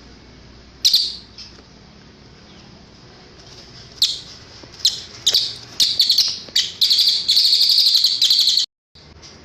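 Cililin songbird singing: a sharp high chirp about a second in, then from about four seconds a run of high calls coming closer and closer together into a continuous trill that cuts off abruptly near the end.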